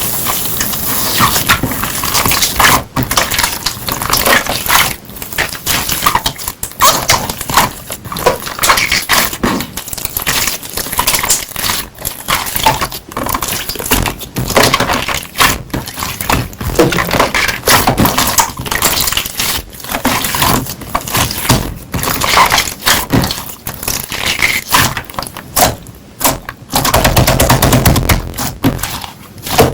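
Slime being pressed and poked by hand, making a dense, irregular run of clicks and pops, with a louder, deeper squelching stretch near the end.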